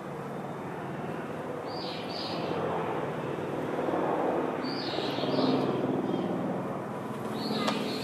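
Small birds calling: pairs of short high chirps about two seconds in, around five seconds, and near the end, over a steady low rumble.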